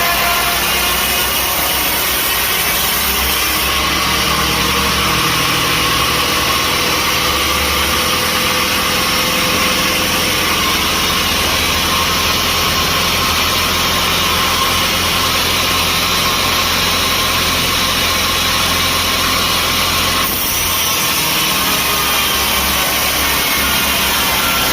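Sawmill machinery running steadily between cuts, a loud engine-like hum with no sawing heard. The sound changes abruptly about four seconds in and again near the end.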